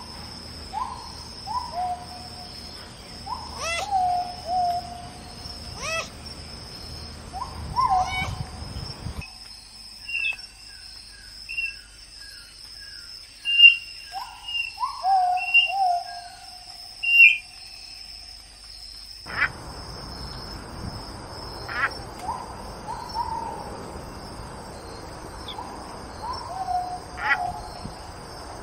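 Wild birds calling: short two-note calls that fall in pitch, repeated every second or two, over a steady high drone of insects. For about ten seconds in the middle, a different stretch with higher, quicker chirps runs alongside the same kind of falling calls.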